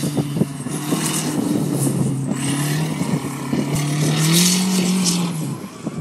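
Dodge Aries's turbocharged 2.2-litre four-cylinder engine being driven through an autocross course, its pitch climbing about four seconds in and falling away about a second and a half later, over bursts of hiss.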